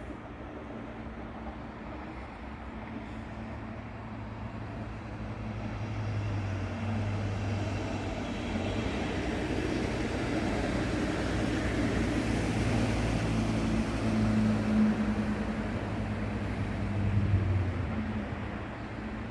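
A train moving through the station. Its steady low hum and rolling rumble grow louder over several seconds, peak twice in the second half, then begin to fade.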